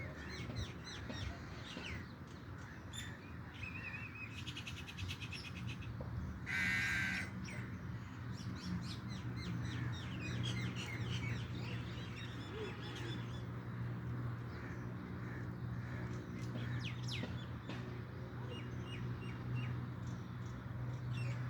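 Birds chirping and trilling, many short high calls overlapping, with one loud harsh call about seven seconds in. A steady low hum runs underneath.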